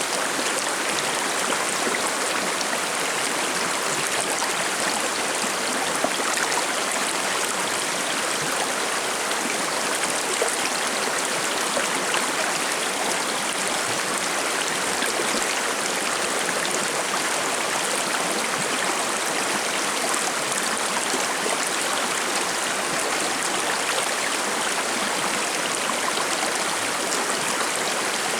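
Forest river flowing and babbling over rocks: a steady, even rush of running water with small splashes and trickles.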